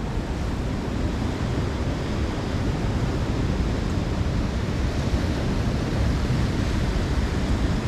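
Rough ocean surf washing in steadily, with wind rumbling on the microphone.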